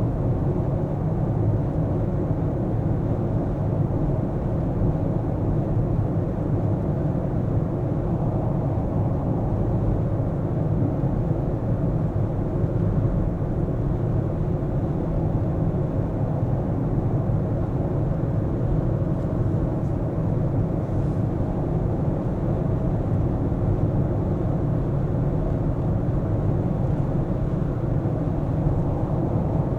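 A car driving steadily: a continuous low rumble of engine and road noise, with no sudden events.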